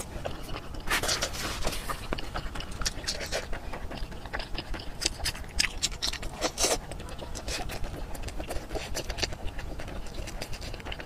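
Close-miked mukbang eating sounds: wet chewing and lip-smacking on soft braised meat, a quick run of small sticky clicks and squelches.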